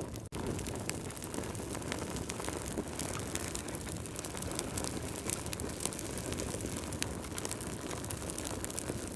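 Wood fire crackling: a steady low rush with frequent small sharp pops and snaps, dropping out for an instant just after the start.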